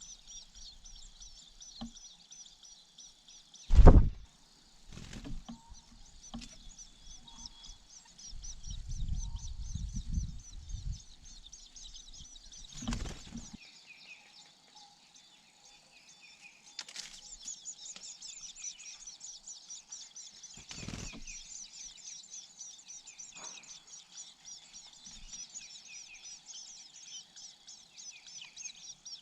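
Long-tailed shrike nestlings chirping in a high, rapid, near-continuous stream, typical of chicks begging at the nest. A loud thump comes about four seconds in, and a low rumble a few seconds later.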